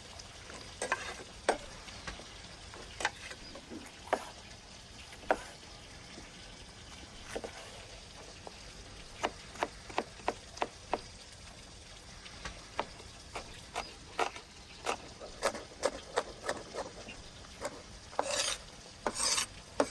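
Cooking utensils clicking and tapping irregularly, with a couple of longer scrapes near the end, over a faint steady hiss.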